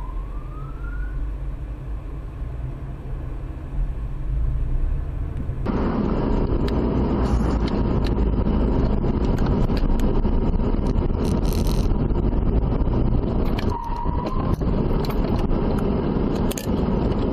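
Steady road and engine noise of a car driving, which turns suddenly louder and fuller about six seconds in, with scattered clicks and a brief tone near the end.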